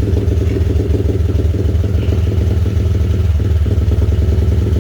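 X-Pro Storm 125cc dirt bike's Zongshen four-stroke single-cylinder engine running steadily without revving.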